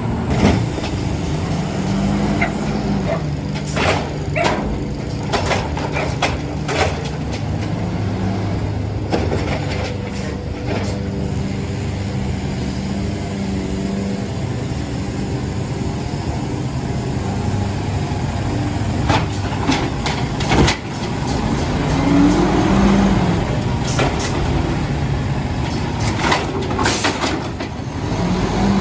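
Engine of a CNG-powered Mack LR garbage truck running, its pitch rising and falling several times, with scattered knocks and clanks and one sharp bang about twenty seconds in.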